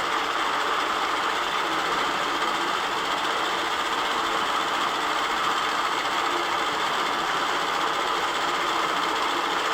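Longarm quilting machine stitching, a steady mechanical whir that runs without a break.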